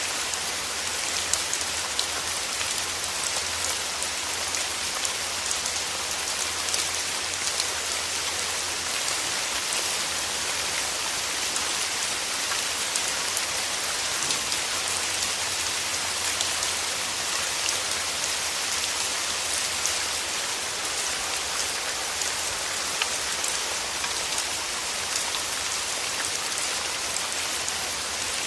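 Steady rain falling on rose petals, an even hiss dotted with frequent close, separate drop taps.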